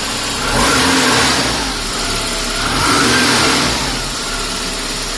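Porsche 944's four-cylinder engine idling shortly after a cold start, revved twice about two seconds apart, the pitch rising and falling back to idle each time.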